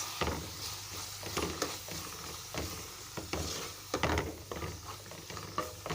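Onions and ground spices being stirred in hot oil in a pan: irregular scrapes and knocks of the stirring utensil against the pan with a light sizzle, over a steady low hum.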